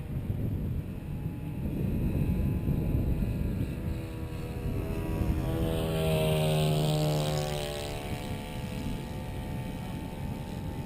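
Wind buffeting the microphone, and about halfway through the HobbyKing B-17 model's electric motors and propellers pass close by, a pitched hum and propeller whine that swells for a couple of seconds and then fades.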